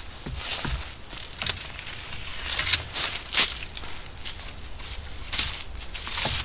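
Dry leaves and twigs crunching and rustling in irregular bursts, as from someone moving about or working on a leaf-littered forest floor.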